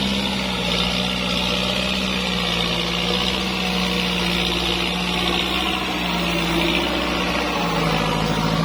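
Kubota tractor's diesel engine running steadily, its pitch dipping slightly near the end.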